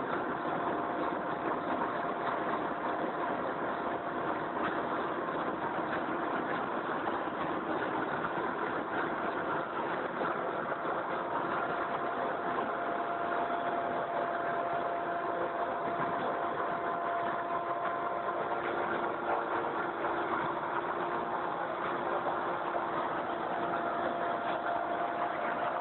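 Mil Mi-17V5 helicopter's twin turboshaft engines and rotor running steadily: a dense, even noise with a few constant whining tones and no change in level.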